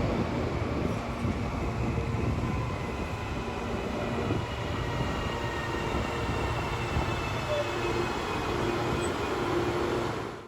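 Train H01, formerly CPTM's H504, running on the track: a steady rumble of wheels and rails with faint thin tones drifting slowly lower.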